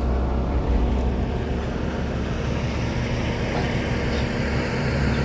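Heavy diesel engine of earth-moving machinery running steadily, a low hum.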